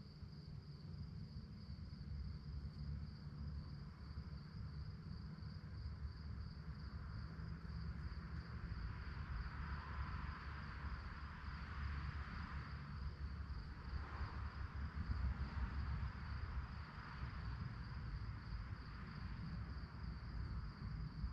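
Crickets chirping at night in a steady, fast-pulsing high trill, over a low background rumble. A soft rushing swell rises and fades in the middle.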